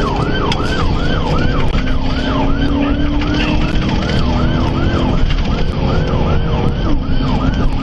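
Police car siren on a fast yelp, sweeping up and down about three times a second, over steady engine and road rumble.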